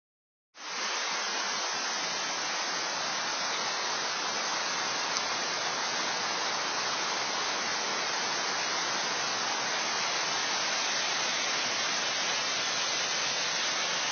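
Waterfall rushing: a steady, unbroken sound of falling water that starts about half a second in and holds level.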